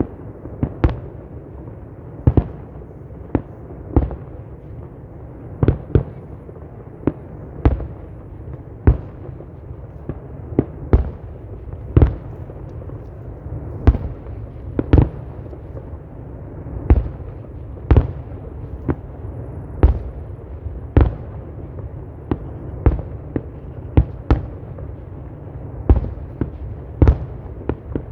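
Fireworks display: sharp firework bangs about once a second, some louder and trailing off in a short echo, over a steady low rumble.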